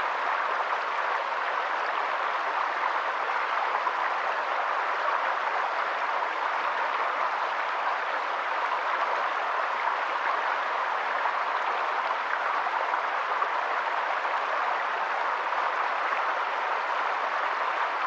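Water running steadily, an even rushing sound with no pauses or changes.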